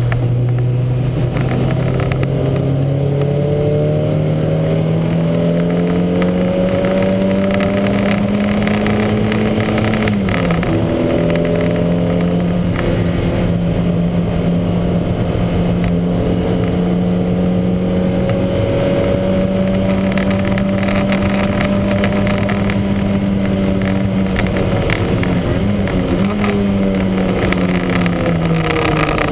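Lancia Montecarlo's twin-cam four-cylinder engine pulling hard under racing load, its note climbing slowly, dropping sharply about a third of the way in, then holding steady with a brief dip and recovery near the end. The engine has a misfire that the uploader calls huge.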